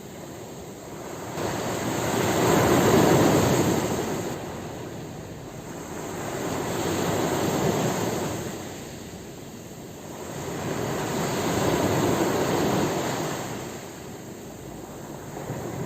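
Ocean waves breaking on a shore, the surf rising and falling three times, about every four to five seconds.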